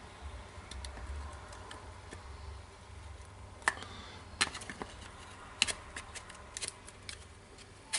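Scattered light clicks and knocks of rotary hammer drill parts being handled, as the motor field is fitted into its housing, over a faint steady hum.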